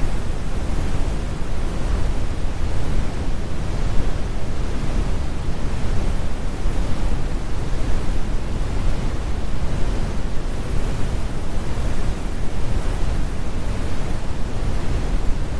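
Synthetic brown noise: a steady, deep rumbling hiss with most of its weight in the bass and little treble, unchanging throughout.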